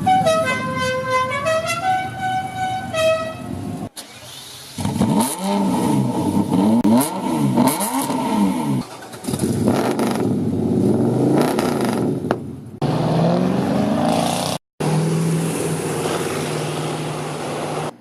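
A short tune in stepped tones at the start, then a run of abruptly cut clips of performance car engines: revving up and down several times, then running steadily.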